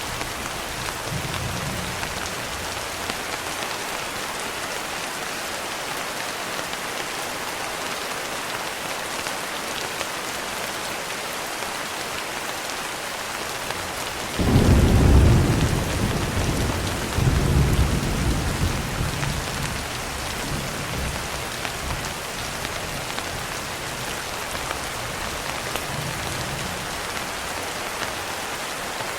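Steady rain falling on a window, with a rumble of thunder that breaks in suddenly about halfway through, swells again a couple of seconds later and fades away over several seconds.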